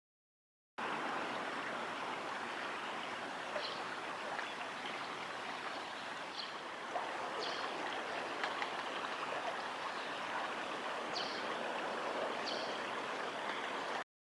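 Flowing river water running steadily, with about five short, faint high-pitched bird calls scattered through it.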